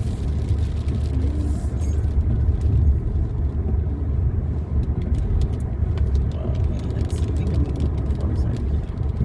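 Steady low road rumble inside a moving car's cabin, with many light irregular ticks of rain hitting the car from about three seconds in.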